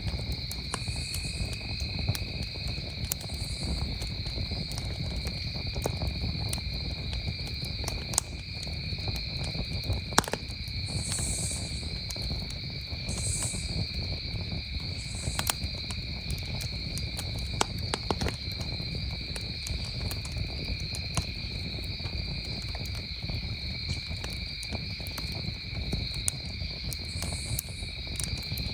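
Campfire crackling with scattered sharp pops, a couple louder than the rest, over crickets trilling steadily at two pitches.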